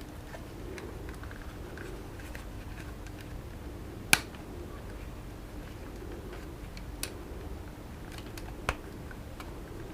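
Handling clicks from working on plastic FPV goggle parts (head strap mount and face plate): faint ticks and taps with three sharp clicks, the loudest about four seconds in, the others about seven and nine seconds in, over a steady low hum.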